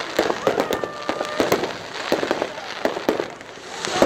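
Fireworks crackling and popping: many sharp cracks in quick, irregular succession.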